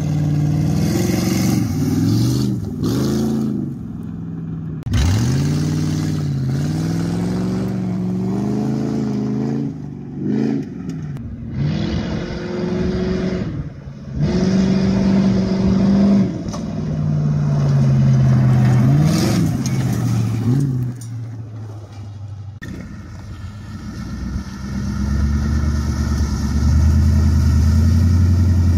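Ford Crown Victoria's V8 engine revving and accelerating while driving off-road. Its pitch rises and falls again and again, with several abrupt changes between takes.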